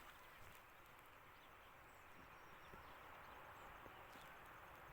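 Near silence: faint outdoor ambience, with a faint, rapid high-pitched ticking running through it.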